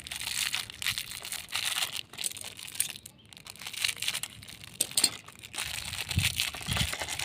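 Plastic snack packet crinkling and crackling in irregular bursts as it is handled and searched for the toy inside.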